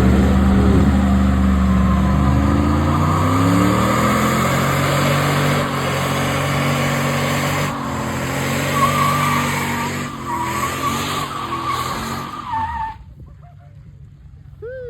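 Truck burnout: the engine revving hard and holding high while the spinning tires squeal. The sound drops away suddenly near the end.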